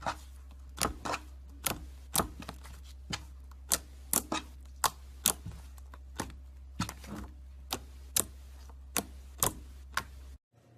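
Slime being pressed and worked by hand, giving off sharp clicks and pops about twice a second over a steady low hum. The sound cuts off suddenly near the end.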